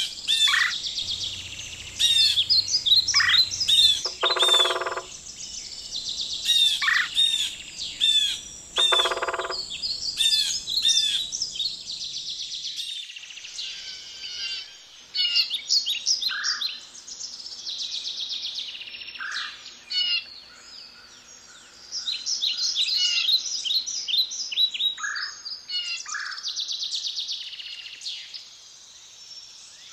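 Several wild birds calling and singing, with many short repeated chirps and whistled phrases. Twice in the first ten seconds a lower call of under a second stands out among them.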